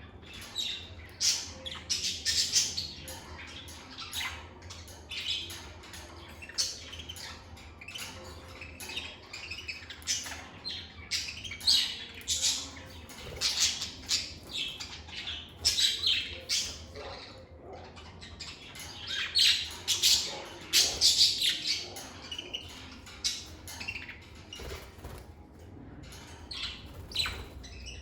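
Lovebirds chirping and squawking: many short, high-pitched calls in quick irregular runs, loudest about twenty seconds in.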